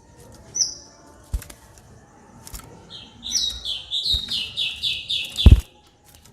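White-rumped shama (murai batu) singing: a short high whistle, then a fast run of repeated chattering notes, about five a second, in the rapid 'ngekek' style. The run ends in one loud sharp knock.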